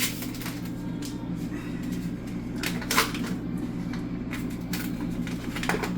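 A few sharp knocks and clatters of kitchen containers and utensils being handled, the loudest about three seconds in, over a steady low hum.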